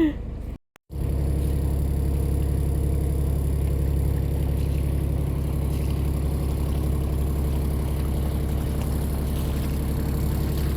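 Sailboat's inboard engine running steadily under way, an even drone that holds one pitch, after a short gap of silence just under a second in.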